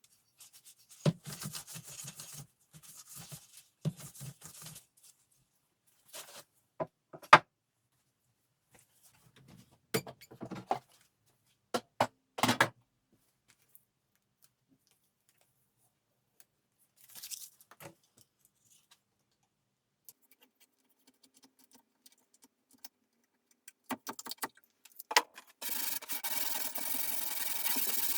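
Hand work on wood: short bouts of rubbing and scraping with a few sharp knocks between them, and a steady hissing rush for a couple of seconds near the end.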